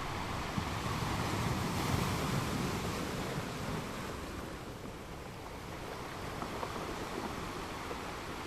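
Ocean surf breaking and washing onto a beach: a steady rush that swells about two seconds in and eases off around the middle.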